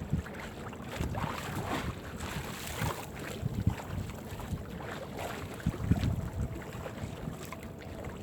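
Wind buffeting the microphone on a small fishing boat at sea, with uneven gusty rumbles, water noise and a few scattered knocks.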